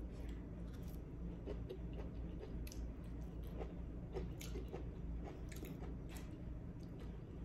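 Wet chewing and mouth smacking as a mouthful of okra and rice is eaten, with irregular soft clicks throughout over a steady low hum.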